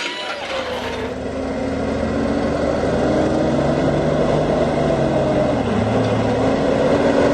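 Road vehicle engine running with road noise, growing gradually louder.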